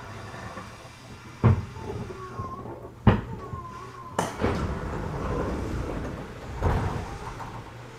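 Interior running sound of a JR 211 series 3000-subseries electric train: a low steady hum with four sharp knocks, irregularly spaced, from the wheels going over the track, and faint brief squeals.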